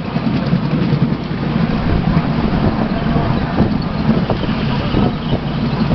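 Steady rumble of a miniature railway train running along the track, heard from a passenger car behind the locomotive, with a few light knocks.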